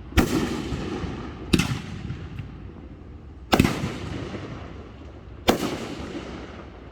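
Four loud firework shell bursts, roughly one to two seconds apart, each a sharp bang followed by a long fading rumble.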